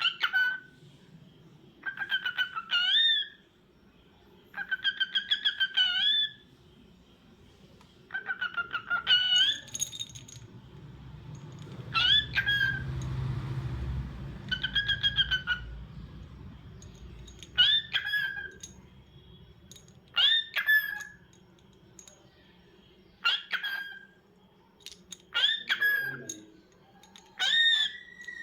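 Lutino cockatiel whistling and calling: about ten short, warbling whistled calls, each rising at the end, repeated every two to three seconds.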